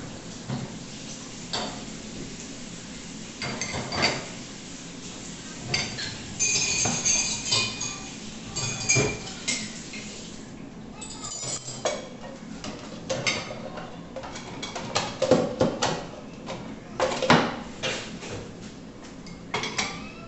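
Dishes and cutlery being handled and loaded into a dishwasher, with irregular clinks and knocks and a brief spell of ringing, jingling metal about seven seconds in.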